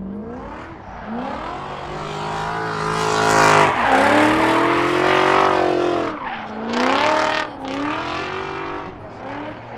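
A drift car's engine revving hard, its pitch climbing and falling several times, with the tyres squealing under wheelspin. It is loudest from about three to six seconds in. The car is spinning its rear tyres to heat them.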